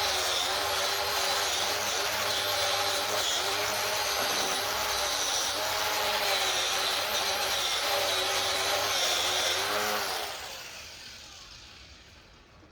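A machine driven by an electric motor runs steadily with a wavering whine, then is switched off about ten seconds in and winds down to a stop over a couple of seconds.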